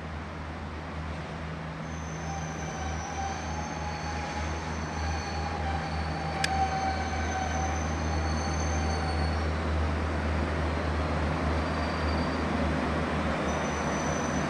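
Regional diesel multiple unit running slowly into the station, its low engine hum and rolling noise growing louder. High-pitched squealing starts about two seconds in and dies away around ten seconds. A single sharp click comes about halfway through.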